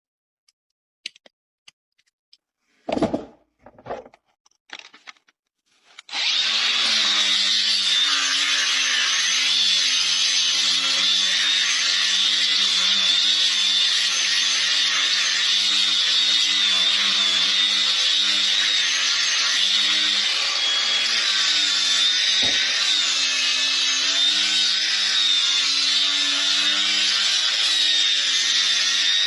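A few sharp knocks, then about six seconds in an electric power tool starts and runs steadily, grinding on the horse's hoof: a motor hum that dips slightly under load beneath a harsh, hissing grind.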